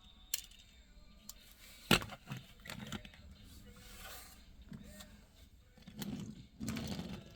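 Handling noises from a small die-cast toy car: a few light clicks, a sharp knock about two seconds in, then short scraping runs of its wheels rolling on a hard surface, the longest near the end.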